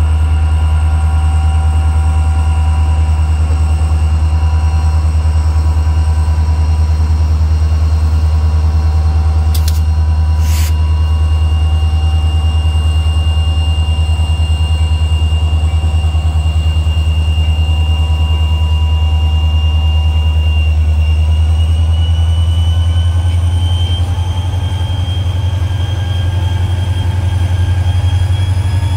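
A diesel freight locomotive rumbles slowly past pulling loaded hopper cars, its engine a loud, steady low drone that eases off as it moves away. A thin, steady wheel squeal runs over it and rises a little in pitch in the second half. Two sharp metallic clanks come about ten seconds in.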